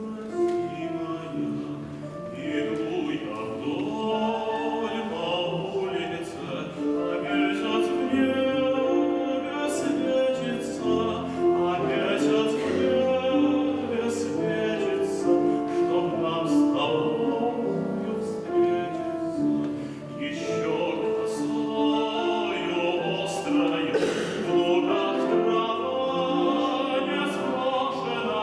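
Singing with instrumental accompaniment: a song performed in a classical, operatic-leaning style.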